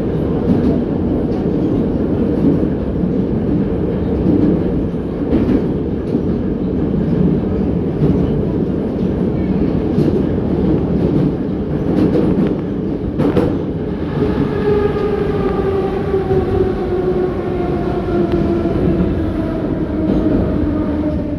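81-717.6 metro train running through the tunnel, heard from inside the car: a steady, loud rumble of wheels on rail with a few sharp clacks over rail joints. About 14 seconds in, a whine from the traction motors and gears sets in and falls steadily in pitch as the train slows for the next station.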